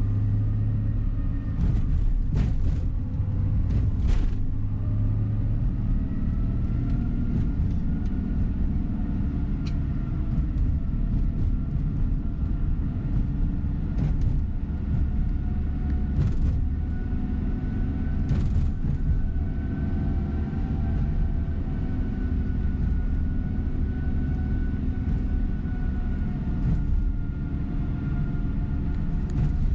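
Inside a tour coach on the move: steady engine and road rumble, with a faint engine tone drifting slowly up and down and a few short knocks from bumps in the road.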